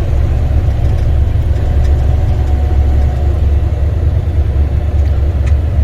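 Semi truck's diesel engine running steadily, a low rumble with no change in pace.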